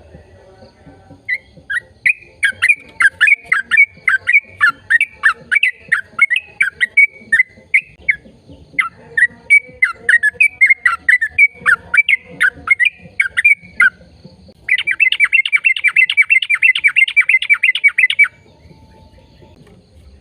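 A bird singing: a long run of quick chirping notes, then a fast, even trill near the end.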